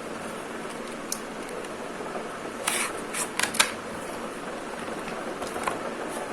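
Drawing materials, probably sketch pens and paper, being handled: a light click about a second in, then a short run of clicks and rustles around three seconds in, over a steady background hiss.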